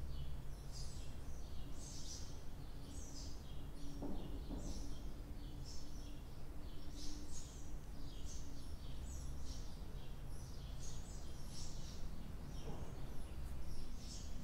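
Small birds chirping repeatedly over a low, steady background hum.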